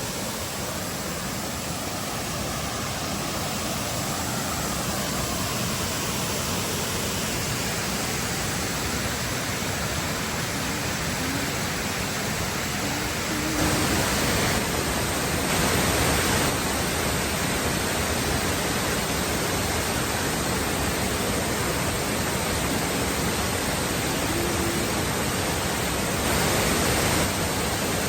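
Waterfall: the steady rush of falling water, a constant hiss-like roar that grows a little louder about halfway through.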